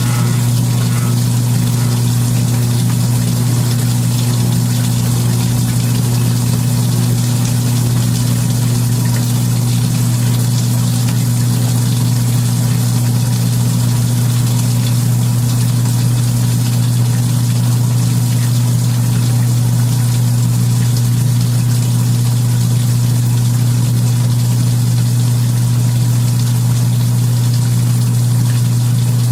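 Old Kenmore belt-drive portable washing machine running steadily mid-cycle: its electric motor hums with a strong, steady low buzz, over a hiss from the running machine and water. The owner says the cabinet buzzes.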